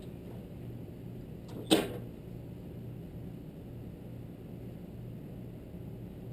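Toro stump grinder's gasoline engine idling with a steady, low pulsing hum. A single sharp click comes a little under two seconds in.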